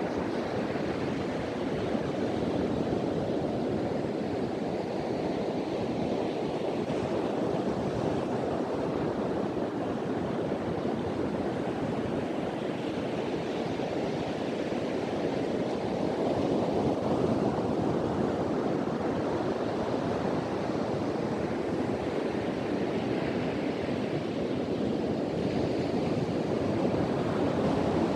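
Ocean surf breaking and washing on a beach, a steady rush that swells and eases over several seconds, with wind.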